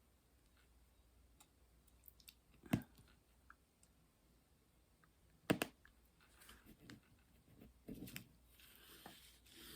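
Faint clicks and taps of diamond painting work: drills and the applicator pen being handled on the canvas. There are two sharper knocks, about three seconds and five and a half seconds in, and soft rustling near the end.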